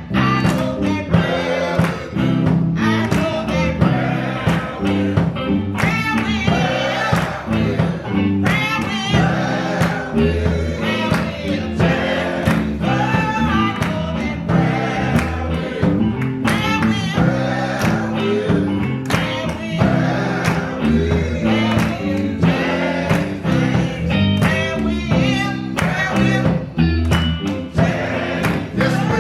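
Gospel music with singing, backed by a steady beat, bass and guitar.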